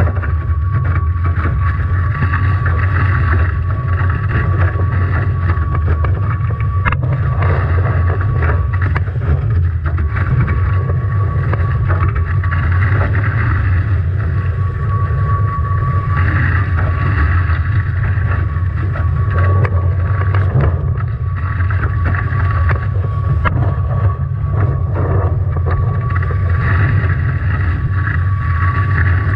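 Strong wind buffeting the microphone and water rushing past the hull of a Nacra 17 foiling catamaran sailing in heavy weather, with a thin steady whistle underneath.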